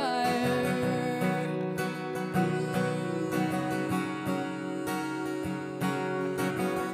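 Acoustic guitar strummed steadily in an instrumental passage of a folk song, just after the last sung word fades at the start.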